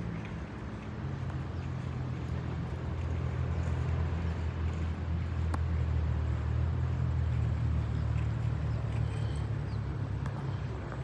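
Jet airliner passing overhead: a steady low drone with a few deep tones that slide slightly lower near the start and climb again near the end.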